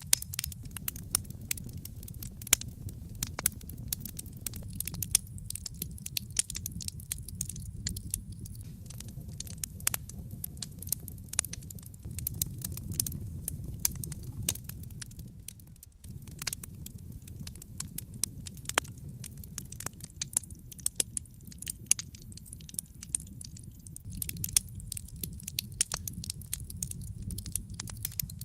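Wood fire burning in a fireplace: dense, irregular sharp crackles and snaps over a low, steady rumble of the flames, which dips briefly about halfway through.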